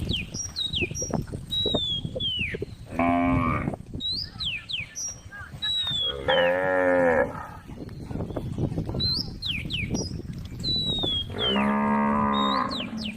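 A cow mooing three times, each call a long, drawn-out low for about a second, with birds chirping throughout and a rustle of movement underneath.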